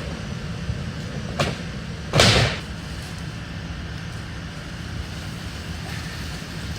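A heavy maple furniture piece knocks once, then about a second later bangs loudly for about half a second as it is heaved against a loaded truck, over a steady low rumble.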